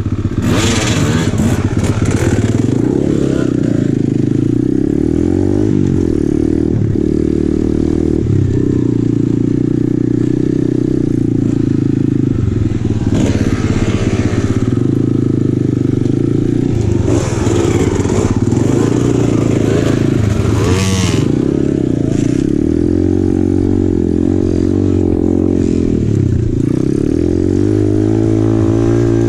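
2020 Apollo RFZ 125cc pit bike's single-cylinder engine running under a rider on a rough trail, the revs rising and falling again and again as the throttle is worked, with a few brief bursts of scraping noise.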